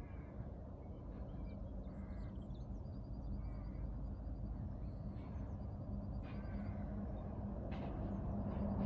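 Small birds chirping, with two short rapid trills, over a steady low rumble and a constant low hum.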